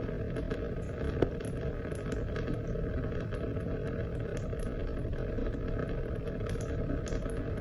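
Steady rain with many small drop ticks scattered through it, and one sharper tap about a second in.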